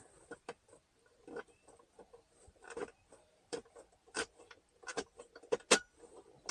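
Irregular light clicks and knocks of plastic and metal as the broken center console lid is worked loose at its hinge to free the hinge rod, the sharpest knock near the end.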